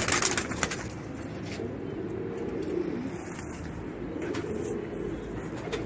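Pigeons cooing, a low warbling call repeated over and over, with a few sharp clicks in the first second.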